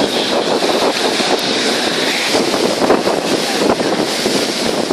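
Wind buffeting the microphone over a steady rush of water, as heard aboard a moving boat.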